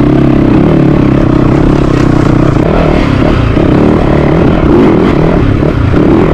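Yamaha YZ450FX's four-stroke single-cylinder engine running under throttle as the dirt bike is ridden, its pitch rising and falling as the rider opens and closes the throttle.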